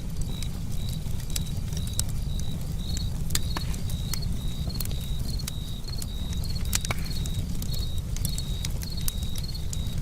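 Wood campfire crackling with scattered sharp pops, the strongest about seven seconds in, over a steady low rumble. A cricket chirps in an even rhythm, about two high chirps a second.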